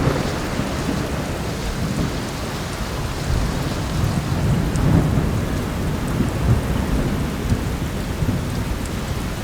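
Steady heavy rain with low rolling thunder rumbling under it, the rumble swelling about halfway through.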